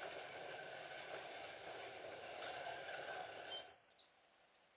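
Scalextric slot car track with the cars' small electric motors whirring steadily. Near the end comes a short, high electronic beep, and the whirring cuts off abruptly.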